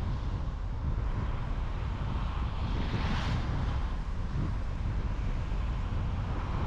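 Steady low rumble of road and wind noise from a car driving, with a hiss that swells and fades about three seconds in.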